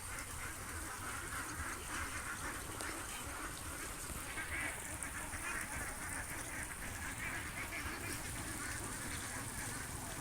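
Domestic ducks and geese quacking and honking together, a dense unbroken chatter of overlapping calls.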